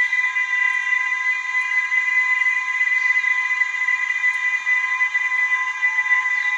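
Dense chorus of frogs calling at night, merging into a continuous high trilling drone that holds steady in pitch.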